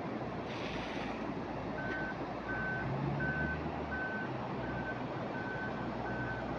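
Heavy vehicle's reversing alarm beeping at one steady pitch, about three beeps every two seconds, over a low engine hum. A brief hiss sounds about half a second in, before the beeping starts.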